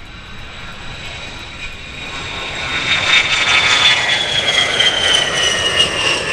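Aircraft flying past, growing louder, with a high engine whine that slowly drops in pitch as it goes by.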